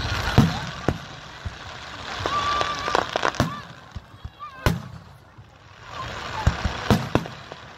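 Fireworks going off: sharp bangs at uneven intervals, a heavy one near the middle and a quick cluster near the end, with crackling between the bursts.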